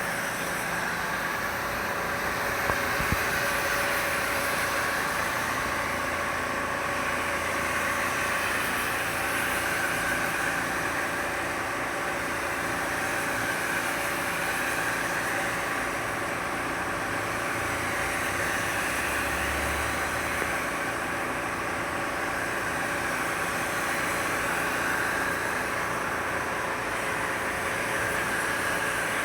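A motor running steadily: a constant mechanical hum of several steady tones over an even hiss, with no change in speed.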